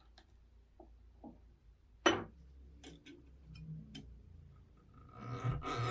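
Light clicks and taps of small parts being handled, with one sharper click about two seconds in. Near the end, rhythmic abrasive rubbing strokes begin, as in hand filing or sanding during a restoration.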